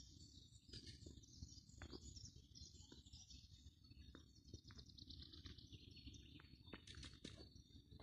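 Faint birdsong in a birch forest: small birds chirping and trilling in high, quick notes without pause, over a faint low rumble.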